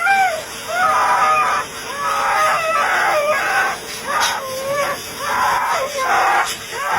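Chicken calling in a run of short, rising-and-falling squawks, roughly one a second.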